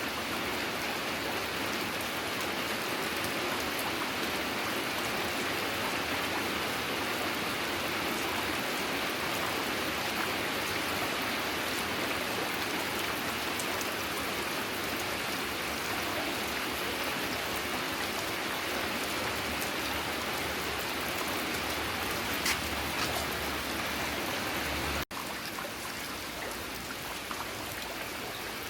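Steady rain falling, an even hiss of drops; after a brief cut about 25 seconds in it continues a little quieter.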